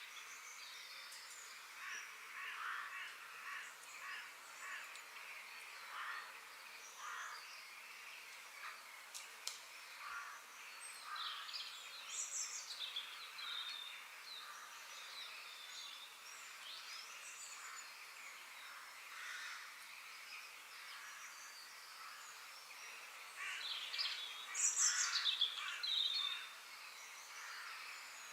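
Several birds chirping and calling over one another in short notes and trills, over a faint steady hiss, with a louder flurry of calls near the end.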